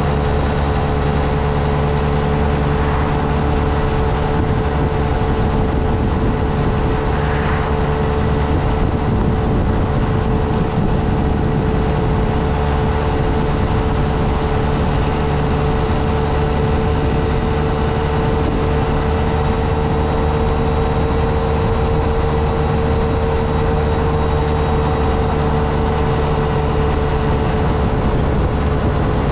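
Motorcycle engine running steadily under way, a constant drone whose pitch drifts only slightly, over a steady rush of air and road noise.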